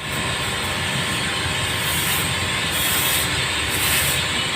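Steady hiss of water spraying in a car wash.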